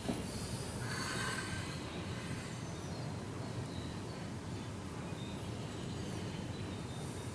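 Steady low hum of workshop background noise, with a brief scraping or sliding sound in the first second or so.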